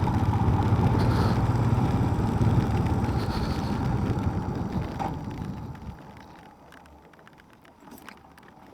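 Motorcycle engine running under way, fading out about five to six seconds in as the bike slows to a stop, leaving a quiet stretch with a few faint clicks.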